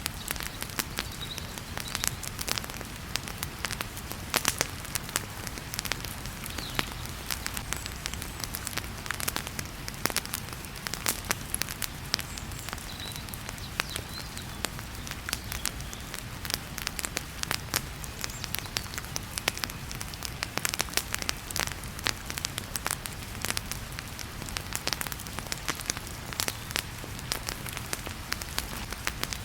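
Fireplace fire crackling with many sharp pops and snaps, over the steady hiss of heavy rain.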